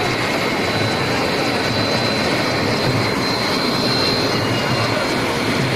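Helicopter running close by: a steady, loud engine-and-rotor noise with a thin, even high-pitched turbine whine over it.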